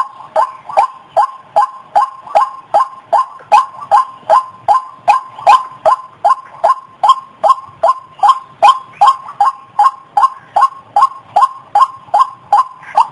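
White-breasted waterhen (ruak-ruak) calling: a steady run of short, sharp notes, about two and a half a second, each dipping slightly in pitch. This is a recorded call played as a bird lure.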